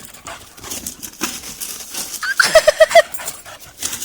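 Dog whining: a short rising whine about two seconds in, then four quick high whimpers in a row, over scattered rustling.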